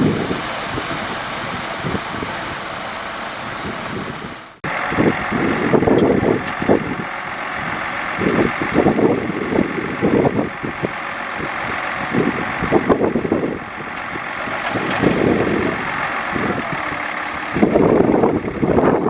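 Heavy diesel earthmoving machinery running under load, the engine note surging and easing irregularly. About four and a half seconds in, the sound breaks off abruptly and picks up again.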